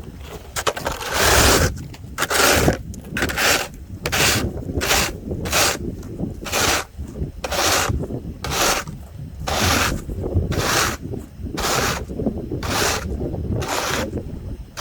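Footsteps crunching along at a walking pace, a little more than one step a second.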